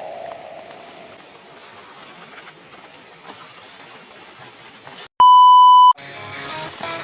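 A loud electronic beep, one steady high tone lasting under a second, about five seconds in, after a faint hiss and the fading ring of an earlier hit. Music starts right after the beep.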